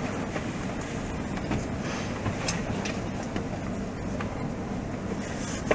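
Passenger train rolling along the track, heard from inside the carriage: a steady low rumble of wheels on rail with scattered light clicks and rattles.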